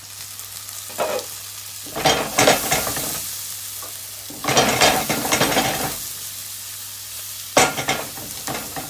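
Chopped onions and mushrooms frying in a pan, browning in bacon fat with a steady sizzle. The sizzle surges louder four times as the pan is worked: briefly about a second in, then at about two seconds, four and a half seconds, and near the end.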